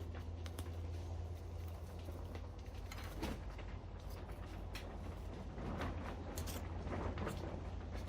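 Root rake scratching and picking through a spruce's root ball and a dense, spongy fungal mat, in irregular short rasps and clicks that come thicker about three seconds in and again near the end. A steady low hum runs underneath.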